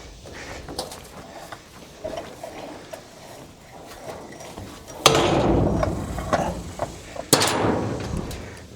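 Two loud, sudden crashes about two seconds apart, each dying away over a second or two.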